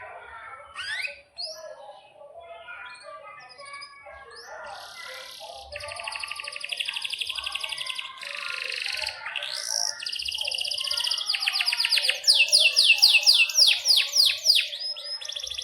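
Domestic canary singing: quick rising whistles, then long rapid trills from about six seconds in, getting louder near the end with a run of sharp upward sweeps.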